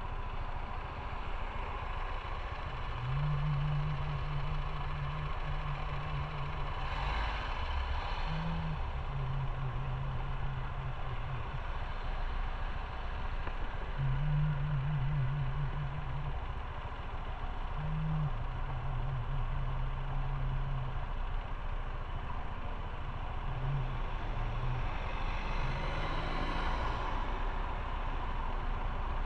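Motorcycle engine running under way, with steady wind and road noise. The engine note holds steady for a few seconds at a time and steps down in pitch now and then, and two brief swells of noise come through, about a quarter of the way in and near the end.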